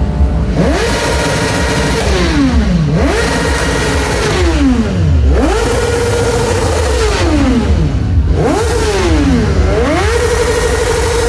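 A 1000 cc inline-four superbike engine with an aftermarket exhaust being revved hard again and again. Each rev climbs quickly, holds at the top for a second or two with a wavering note, then falls back. There are about four revs, with a quick double blip near the end.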